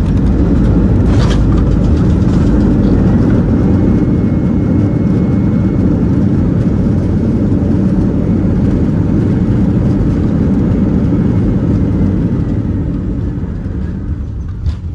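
Airbus A319 cabin noise: a loud, steady low rumble of the jet engines and airflow, easing off in the last few seconds, with a short click near the end.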